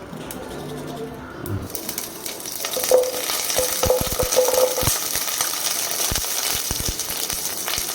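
Food sizzling in hot oil in a pan, the sizzle setting in about two seconds in, with a utensil clinking and scraping against the pan as it is stirred.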